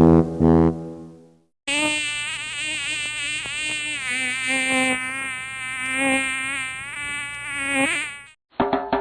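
A buzzing sound whose pitch wavers up and down, lasting about six and a half seconds, after a brass music phrase fades out in the first second and a brief silence.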